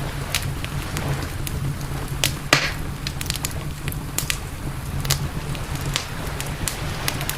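Campfire crackling, with frequent sharp pops and one louder snap about two and a half seconds in, over a steady low rumble.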